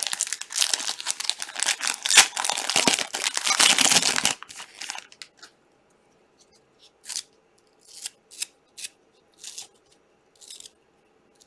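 Wrapper of a trading card pack being torn open with a dense crinkling and tearing for about four seconds, followed by several short, separate crinkles or rustles as the pack is handled.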